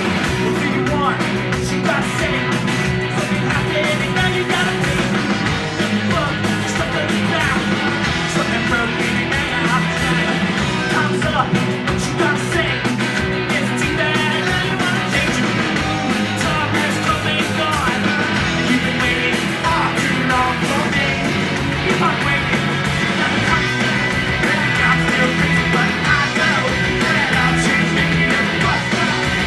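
A rock band playing live, loud and unbroken, in a punk style with singing.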